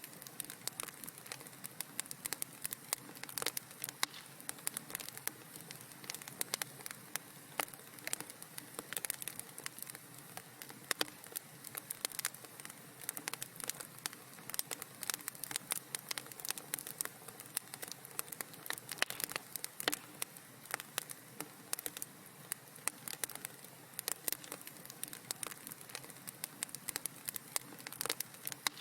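Wood fire in a fireplace crackling steadily: a soft hiss under dense, irregular pops and snaps.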